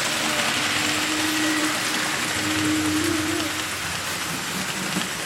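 HO scale model trains running on the layout: a steady rushing hiss of wheels on track, with a thin motor hum that fades about three and a half seconds in.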